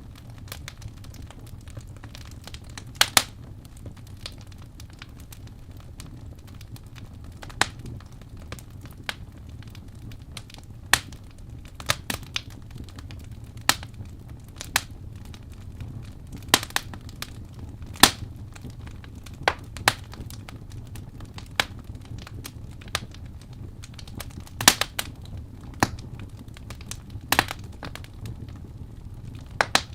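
Wood fire burning in a fireplace: a steady low rumble with sharp, irregular crackles and pops, a few of them louder.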